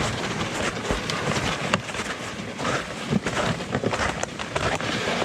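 Footsteps crunching and squelching through wet, thinning snow and mud, an uneven run of steps with scuffs and knocks.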